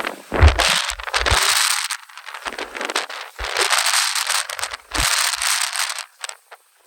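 Strong Santa Ana wind gusting: three surges of rushing noise, the first about half a second in, with low thumps of wind hitting the microphone. The gusts die away near the end.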